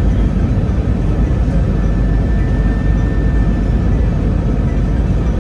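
Airbus A321-200 airliner heard from inside the passenger cabin: a steady, loud rumble of engines and airflow during the landing phase, with a faint thin whine in the middle.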